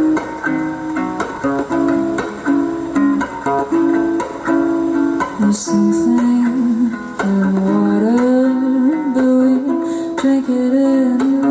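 Acoustic guitar playing a song intro, picked and strummed chords with ringing notes.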